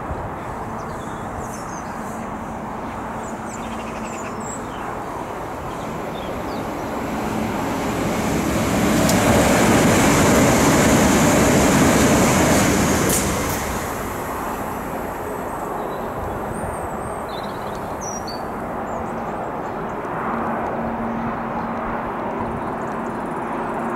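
Electric multiple unit train passing through the station. Its wheel and motor noise swells to a peak about nine to thirteen seconds in, then fades away quickly. Birds chirp faintly before and after it.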